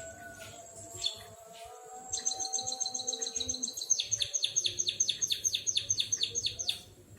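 White-headed munia (emprit kaji) singing a canary-like song. A few scattered high chirps are followed, about two seconds in, by a long fast trill of repeated high notes, roughly seven or eight a second, which grows louder midway and stops abruptly near the end.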